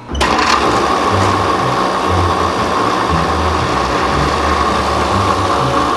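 Electric bench grinder spinning a Scotch-Brite wheel, with a steel dagger blade held against it to scrub off tarnish and light rust. It starts suddenly and runs at a steady level with a whining tone over a low rumble.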